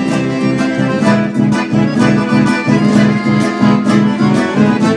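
Instrumental chamamé music led by accordion over a strummed guitar, with a steady beat.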